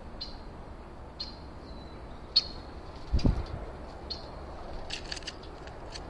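A bird calling with short high notes about once a second, then a quick run of sharp notes about five seconds in. A low thump sounds a little past three seconds in.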